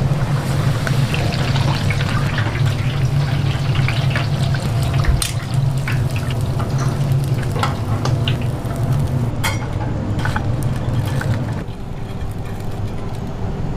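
Food-preparation sounds: a liquid hiss with scattered clicks and knocks over a steady low hum, which drops a little near the end.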